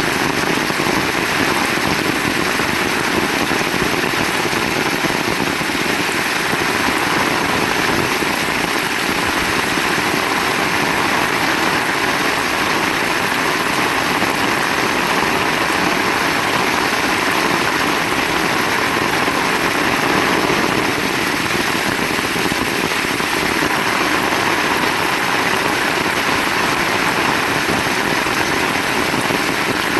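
Heavy rain falling steadily, an even unbroken wash of noise with no thunder claps.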